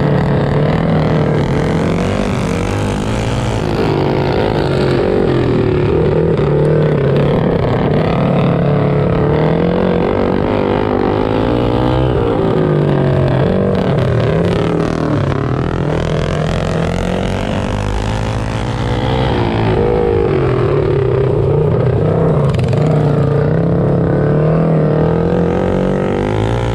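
Mini bike engines racing, their pitch rising and falling over and over as the throttles open and close.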